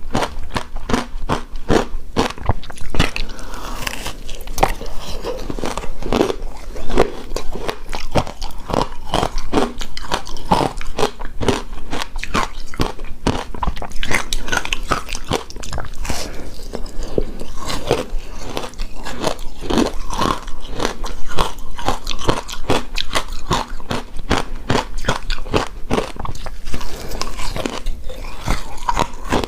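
Close-up eating sounds of shaved snow ice: rapid, continuous crunching and chewing of icy bites.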